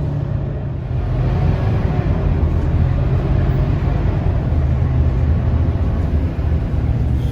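Scania K230UB single-deck bus's diesel engine running while the bus is under way, a steady low drone with road noise; it gets louder about a second in.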